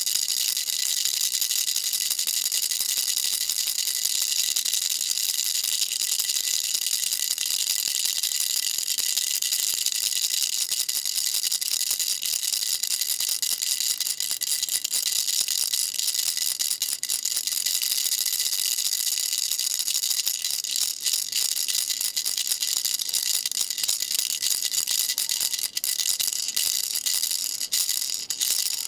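Baby rattle shaken steadily: a dense, high-pitched rattling of loose beads that thins into more separate clacks over the last few seconds.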